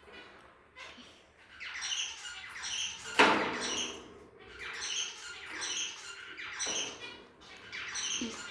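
Pet budgies calling with a run of short harsh squawks, about one a second, with one louder sharp sound about three seconds in.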